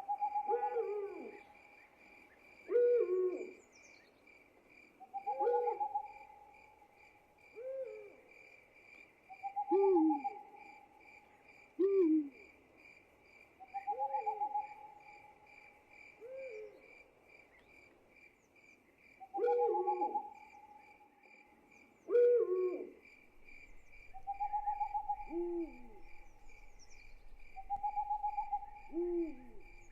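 Night ambience of owls hooting in short repeated calls every couple of seconds, over a steady, evenly pulsing chirp of crickets.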